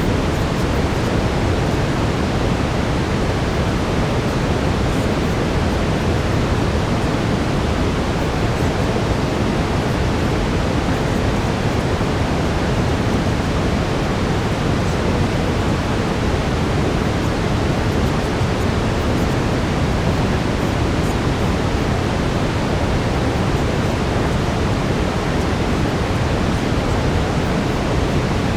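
Steady, unbroken brown noise: an even hiss weighted toward the low end, with no changes or events.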